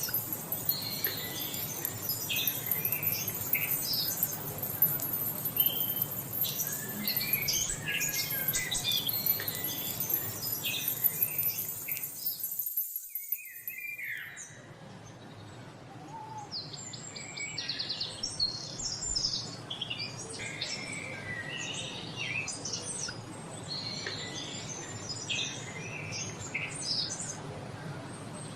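Many songbirds chirping and singing at once, short calls and trills overlapping continuously over a low background hiss. About halfway through the sound drops out briefly and resumes with a different recording of birdsong.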